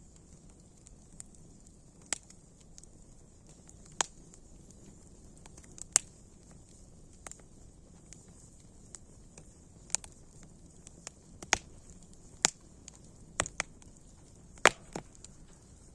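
Wood campfire crackling: irregular sharp pops, one every second or so, over a faint steady hiss, the loudest pop near the end.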